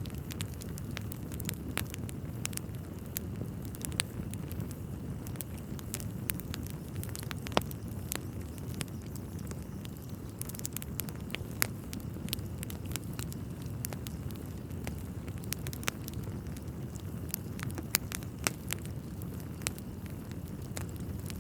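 Wood fire burning in a fireplace: a steady low rumble of flames with irregular sharp crackles and pops from the logs, a few of them louder.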